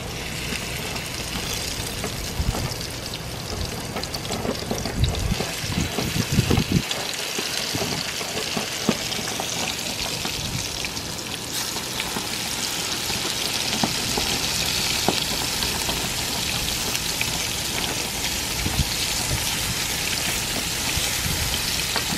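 Breaded fish fillets sizzling in hot coconut oil in a nonstick frying pan, a steady hiss that grows louder about halfway through as another fillet goes in. A few dull knocks sound a few seconds in.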